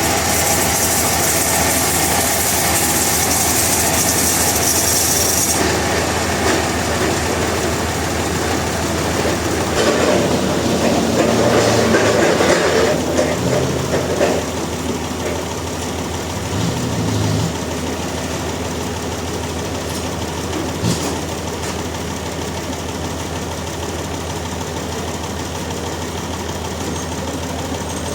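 Industrial sawmill machinery running steadily with a low hum. A high hiss cuts off suddenly about five seconds in, and the sound grows louder and rougher for a few seconds around the middle.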